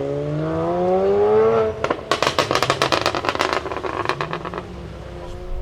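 A BMW's engine revving up with its pitch climbing, then backing off about two seconds in into a rapid run of exhaust crackles and pops that lasts about three seconds. A low, steady engine note is left near the end.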